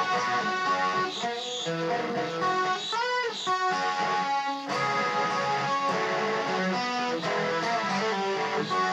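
Electric guitar music: a melodic guitar line of changing notes, with bent, wavering notes about three seconds in.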